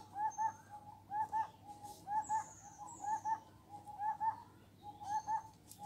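A bird calling in the background: short hooting notes in quick pairs, repeated about once a second, with a few faint high chirps from another bird.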